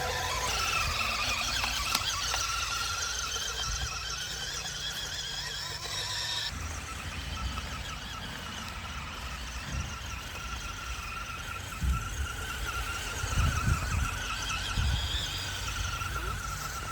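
Radio-controlled model cars running: several high-pitched motor whines overlapping and wavering up and down in pitch over a steady low hum. The sound changes abruptly about six and a half seconds in, and a few low thumps come later on.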